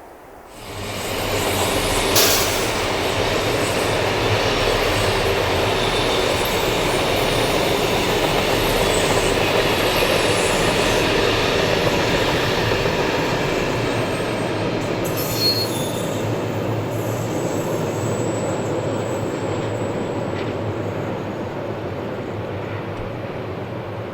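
Electric passenger train passing at low speed, its wheels and carriages rumbling over the track with faint wheel squeal. The sound starts abruptly about half a second in, has two sharp knocks about 2 and 15 seconds in, and slowly fades toward the end.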